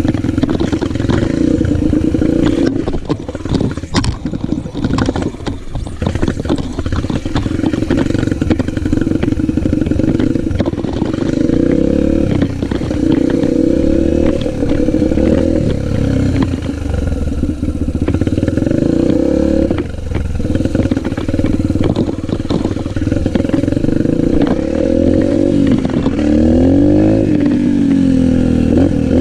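Yamaha motocross bike engine running, its pitch rising and falling with the throttle, with some clattering a few seconds in.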